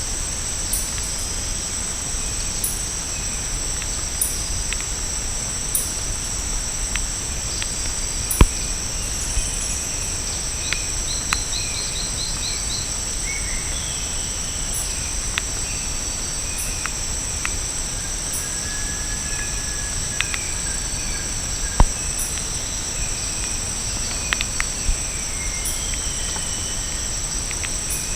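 Tropical forest ambience: a steady, high-pitched insect chorus, with scattered short bird chirps and calls. A few sharp clicks stand out, the loudest about 8 seconds and 22 seconds in.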